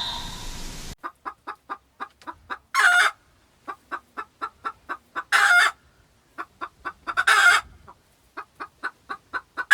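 Chicken clucking in runs of quick short clucks, each run broken off by a longer, loud squawk, about four times over.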